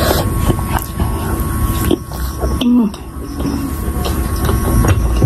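Close-miked chewing of a soft potato pakora dipped in spicy sauce, with wet mouth clicks and smacks.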